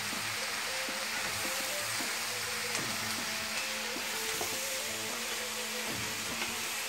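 Steady sizzling of mallow leaves frying in olive oil with onions and peppers in a pan, with a wooden spatula stirring them.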